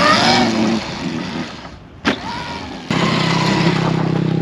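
A noisy stretch that fades away, a sharp click about two seconds in, then an engine idling steadily from about three seconds in.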